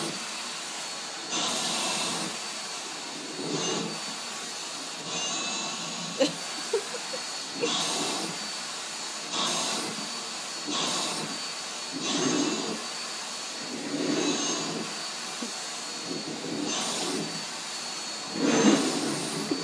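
Vacuum cleaner running with a steady high whine, used on a cat's fur. Its sound swells and eases about every one and a half to two seconds, about ten times.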